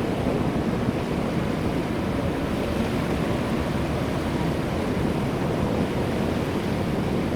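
Airbus A320-200 jet airliner landing: a steady, mostly low-pitched rush of engine and airflow noise.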